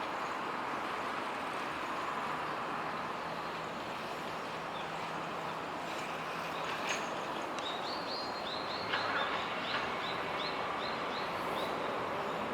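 A common kingfisher calling in the second half: a run of short, high, piping notes, each falling slightly, about three a second. The calls sit over steady background noise, with a couple of sharp clicks.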